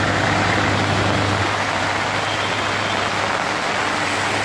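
Heavy rain falling steadily onto a flooded road, with a vehicle engine running close by. The engine's low hum is strongest in the first second and a half, then fades.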